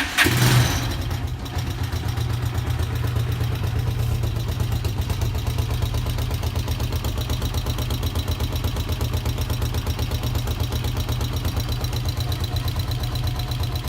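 The 150 cc air-cooled, carburetted engine of an NF 150 8A motorcycle, just started, runs a little higher for about the first second and then idles steadily with an even exhaust beat.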